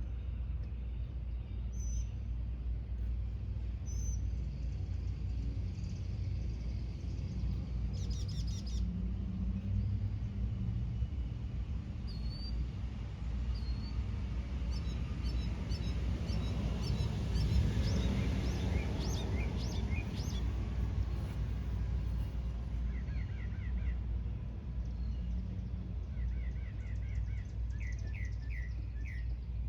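Several birds chirping and calling, with a run of quick repeated notes about halfway through and fast trills near the end, over a steady low rumble.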